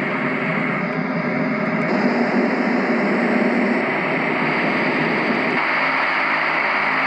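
Small white noise machine's speaker playing steady fan-like noise, the sound changing abruptly to a different noise about every two seconds as its sound modes are stepped through.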